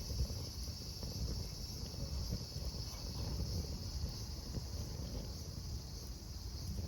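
Steady high-pitched chorus of crickets or other insects over the low rumble of a wood fire burning in a home-made ammo-can secondary-combustion fire pit, with faint scattered crackles.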